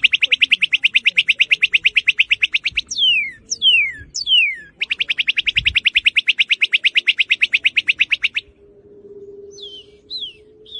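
Northern cardinal (red cardinal) singing. A few falling whistles lead into a long, fast trill of about a dozen notes a second, and the phrase then repeats. The song breaks off about two-thirds of the way through, leaving a few softer notes near the end.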